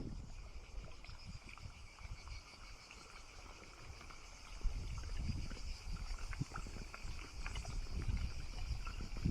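Wind rumbling irregularly on the microphone, stronger from about halfway in, over a steady high-pitched insect drone.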